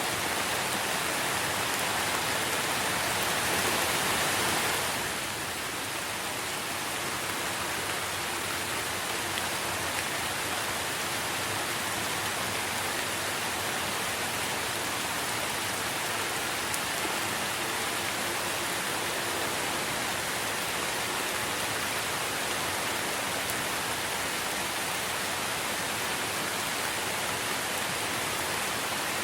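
Steady rain falling on tree foliage, a dense even hiss of drops. It is a little heavier for the first few seconds, then eases slightly and holds steady.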